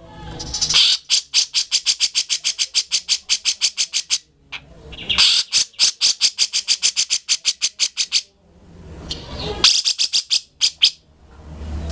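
Grey-cheeked bulbul (cucak jenggot) singing in long runs of rapid, evenly repeated sharp notes, about eight a second, broken by brief pauses every few seconds.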